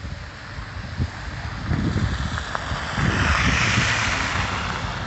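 Strong wind buffeting the microphone, with a louder rushing swell about three seconds in.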